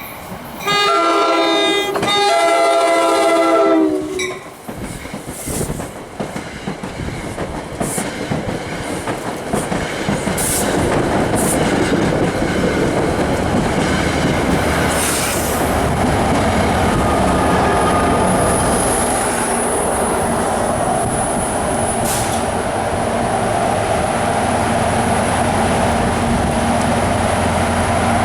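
Train horn sounds two blasts, a chord of tones, the second longer. Then a train passes close by, its wheels clattering over the rail joints loud and steady, with a thin high wheel squeal partway through.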